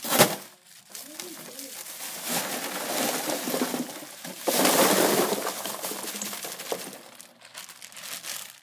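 Bag of ice being opened and put into a styrofoam cooler: a sharp knock at the start, then several seconds of crackling, rattling noise of ice and crinkling plastic bag that fades near the end.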